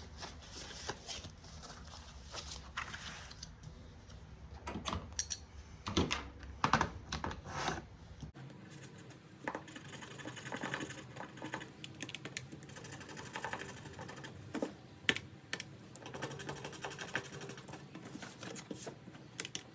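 Paper cash and binder pages being handled on a table: a run of light rustles, taps and clicks. The low background hum cuts out abruptly about eight seconds in.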